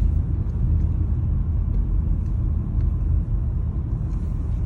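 Steady low rumble of a car driving slowly, its road and engine noise heard from inside the cabin.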